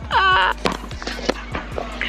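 A short wavering vocal sound, like a drawn-out exclamation, near the start, then a few sharp knocks, over background music with a steady low hum.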